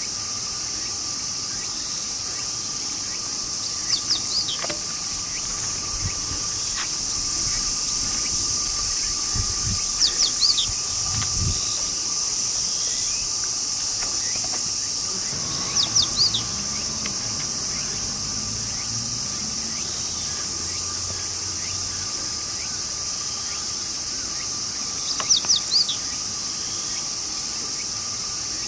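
Steady outdoor chorus of insects trilling, with a bird calling four times in quick bursts of three or four high chirps, several seconds apart.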